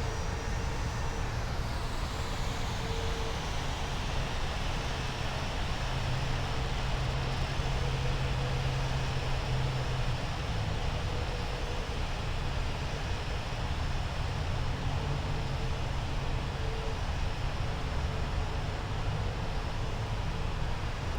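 Steady jet aircraft engine noise at an airport: an even rumble with a faint high whine that falls away in the first couple of seconds.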